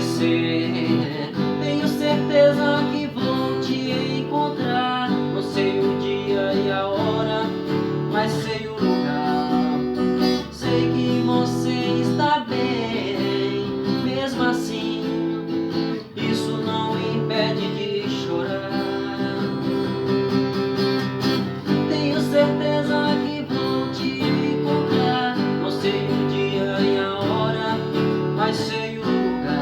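Acoustic guitar strumming chords in a steady rhythm: an instrumental passage of a song, with no lead vocal.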